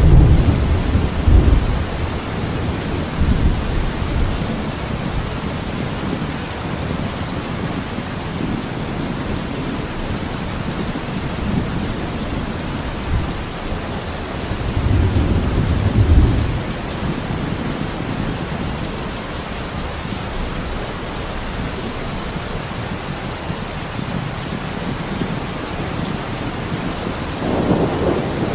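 Thunderstorm: steady heavy rain hissing, with rolls of low thunder rumbling at the start, again around the middle and near the end.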